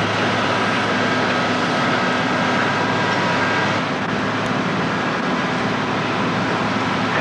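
A steady mechanical drone with a constant low hum and a few held higher tones, dipping slightly about four seconds in.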